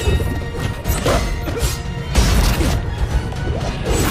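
Film sword-fight sound effects: a rapid, irregular series of blade clashes and hits with swishes, over a dramatic orchestral score.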